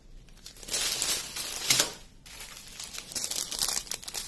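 Small plastic bags of diamond-painting drills crinkling as they are handled, in two stretches with a short pause about two seconds in.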